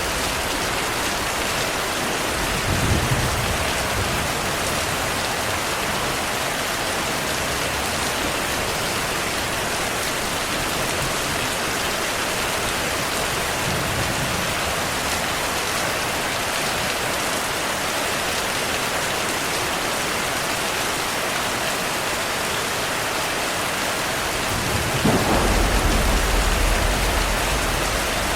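Heavy rain falling steadily, with thunder: a short low rumble about three seconds in and a longer, louder rolling rumble near the end.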